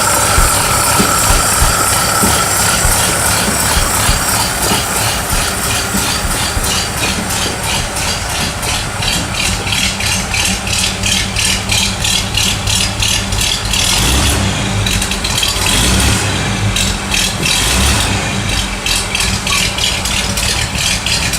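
The 1927 Pontiac Coupe's inline-six engine running, with a steady mechanical rattle that pulses about four times a second.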